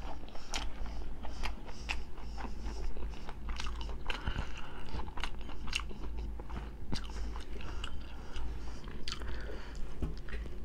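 A person chewing food close to the microphone: a steady run of short wet mouth clicks and soft crunches.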